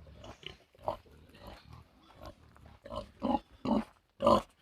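Pigs grunting: faint at first, then four short loud grunts in quick succession in the second half.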